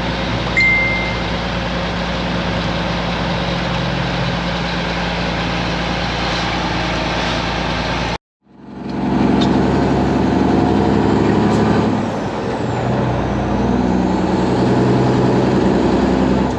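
Semi-truck's diesel engine running on the road, heard from inside the cab, with a short high beep about half a second in. The sound cuts out abruptly about eight seconds in, then the engine comes back louder and deeper, its note dropping around twelve seconds.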